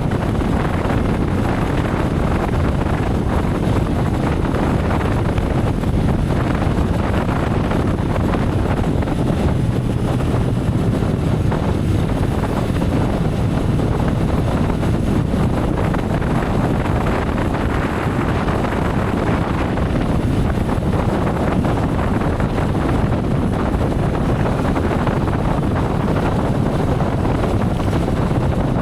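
Steady wind buffeting on the microphone while riding a motorcycle at speed, with the motorcycle's engine running underneath.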